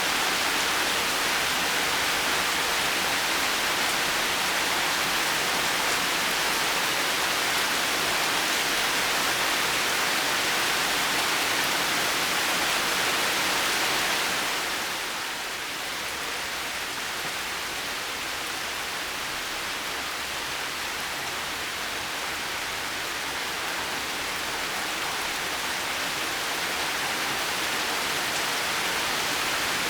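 Heavy rain falling in a steady hiss, easing off slightly about halfway through and building back up near the end.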